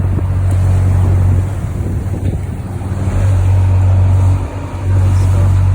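Motorboat engine running under way, a steady low drone that dips in level twice, over a rushing noise of wind and water.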